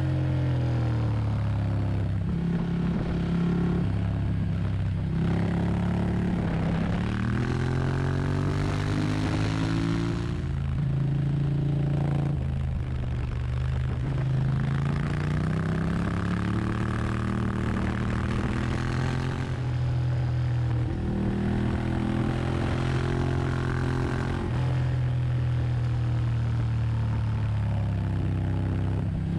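Superbike engine running hard on a race track. Its pitch climbs for a few seconds and then drops again and again, as it revs up through the gears and shifts.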